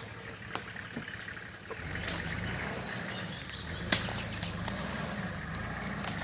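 Nissan Patrol GR Y60 engine running at low revs as the vehicle crawls over rough ground, with sharp knocks and rattles every second or two, the loudest about two and four seconds in.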